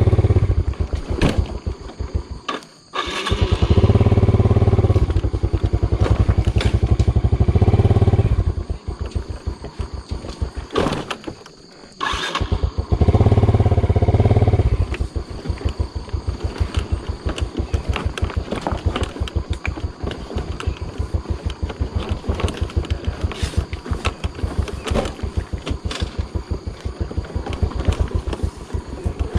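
Motorbike engine labouring up a steep, rocky track, revved hard in loud bursts with the throttle falling away twice. From about halfway, it runs at low revs with an even putting beat.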